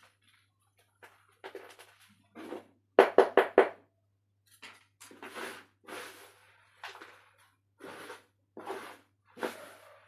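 Dry chunks of red dirt crunching and crumbling in a series of short crunches, with a quick run of four loud crunches about three seconds in, then more spaced crunches.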